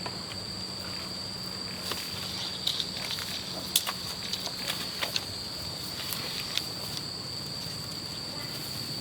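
Insects giving a steady high-pitched drone, with a scattered run of light clicks and knocks about two to six seconds in.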